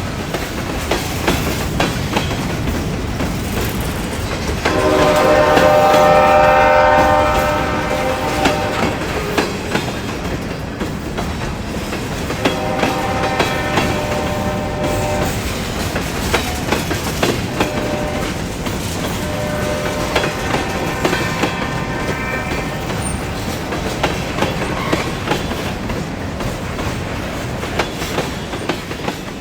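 Freight locomotive horn sounding three times, the first and loudest about five seconds in, over the steady rumble and clicking of freight cars rolling on the rails.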